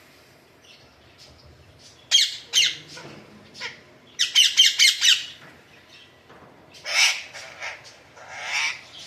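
Alexandrine parakeet squawking in loud, harsh calls. There are two calls about two seconds in and a rapid run of about six notes around the middle, then two more calls near the end.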